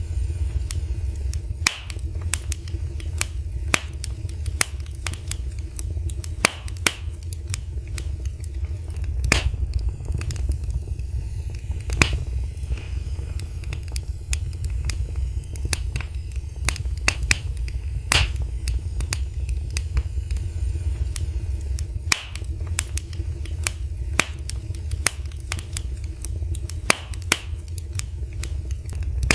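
Fire in a fireplace crackling, with frequent sharp, irregular pops and snaps over a steady low rumble of the flames.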